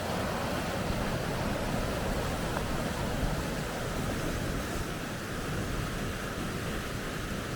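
Steady rushing roar of water pouring through river rapids, a dense even noise with no breaks.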